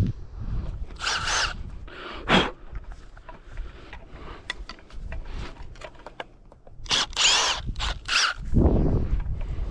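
Cordless impact driver running in several short bursts, backing screws out of wooden concrete forms, with small clicks and knocks between the bursts.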